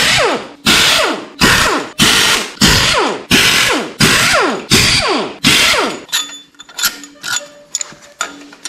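A ratchet backing out the loosened cylinder head bolts on a 6.0L LS V8, with a quick run of rasping clicks on each stroke, about ten strokes in a steady rhythm. The strokes stop about six seconds in and give way to lighter clicks and rattles of the bolts.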